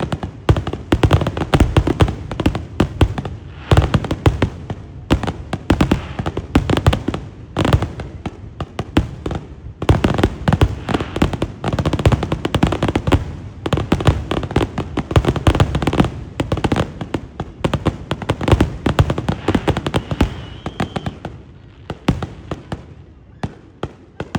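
Fireworks finale: a rapid barrage of many overlapping aerial shell bursts and bangs, thinning out and fading over the last few seconds.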